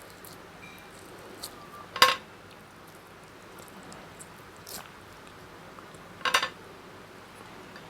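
Close-miked eating: two loud, short crunchy bites about four seconds apart, with faint mouth clicks and chewing between.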